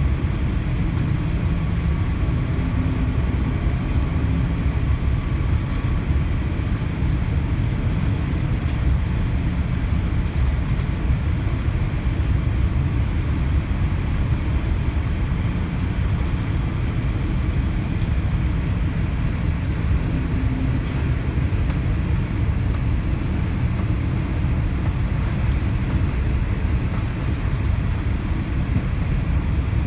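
Steady low rumble and hiss of a Boeing 787-8 Dreamliner heard from inside its passenger cabin, even in level throughout with no sudden events.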